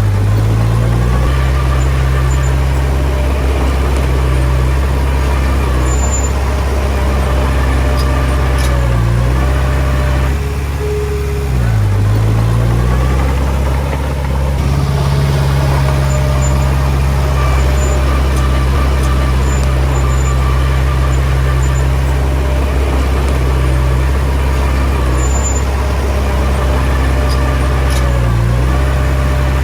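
Komatsu D20P bulldozer's diesel engine running steadily under load. Its pitch dips briefly a few times: about a second in, twice around ten to twelve seconds in, and near the end.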